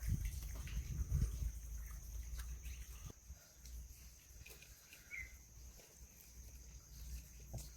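Faint eating sounds: soft chewing and mouth noises, strongest in the first second or so, then a few quiet clicks.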